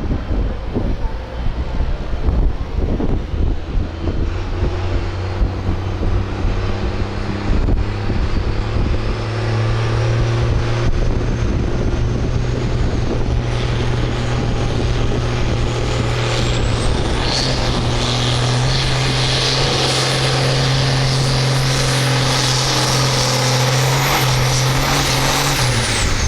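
Farm stock tractor engine running hard under load while pulling the weight sled, a steady heavy drone with a high whine that climbs slowly through the pull. Both stop shortly before the end as the tractor is shut down or backs off at the end of the pull.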